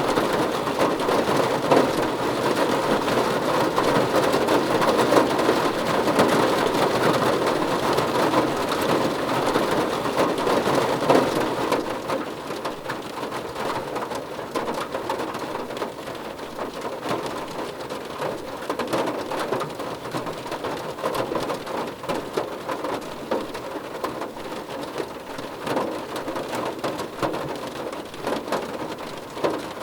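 Rain drumming on a car roof, a dense patter of drops. It is heavier at first and eases fairly suddenly about twelve seconds in, then falls steadily and more lightly.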